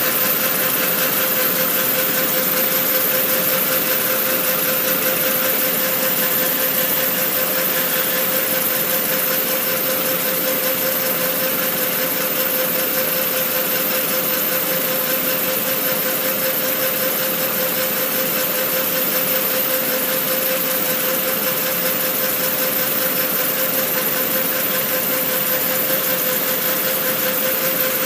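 Audi A4 1.8T turbo engine idling, with a pulsating hiss from its R1 diverter valve over a steady tone.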